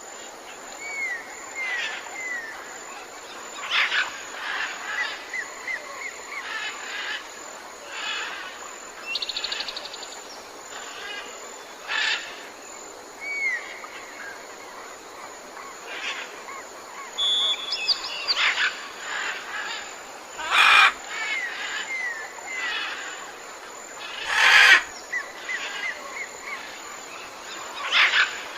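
Jungle birdsong: several birds chirping and whistling over steady background noise, with short down-slurred whistles, a couple of rapid trills, and two louder harsh calls about three-quarters of the way through.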